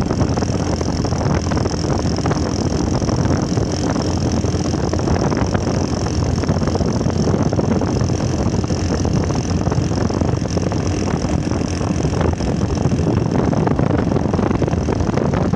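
Motorcycle engine running steadily at idle, loud and unchanging, with no revving.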